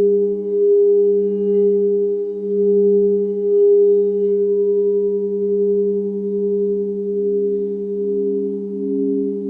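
Singing bowls ringing in long, sustained tones that layer over each other. The lowest tone swells and fades about every second and a half, and a second, slightly higher wavering tone comes in about halfway through.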